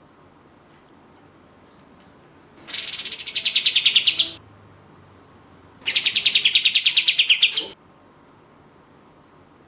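A kapas tembak (katem), a bulbul, singing two bursts of rapid, machine-gun-like repeated notes, each about a second and a half long, the first sliding down in pitch before levelling out.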